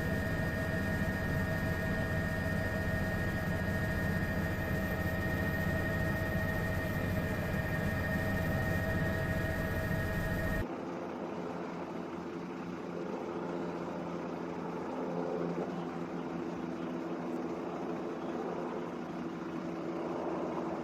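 Steady helicopter engine and rotor drone with fixed whining tones. About ten seconds in it cuts abruptly to a quieter, lower steady hum.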